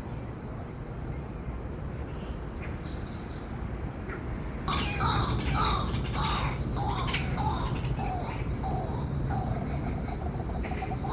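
A bird calling in a quick run of repeated calls, starting suddenly about five seconds in, over a steady low rumble.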